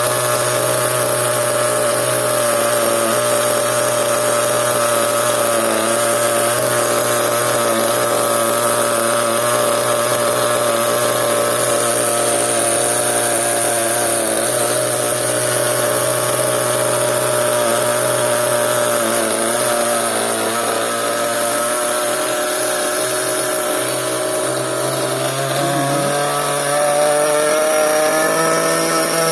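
Small nitro engine of a CEN RC monster truck running steadily at a high, buzzing pitch, then speeding up near the end.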